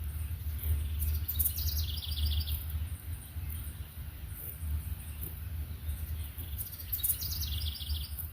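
A songbird sings two phrases, one early and one near the end, each a quick run of repeated notes stepping down in pitch. A steady low rumble runs underneath.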